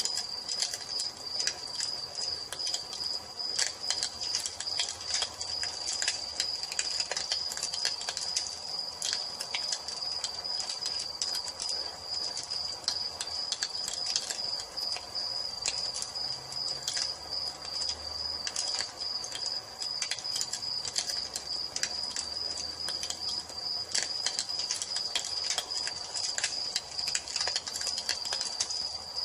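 Crickets trilling steadily and continuously, with a wood fire crackling and popping in irregular sharp snaps over it.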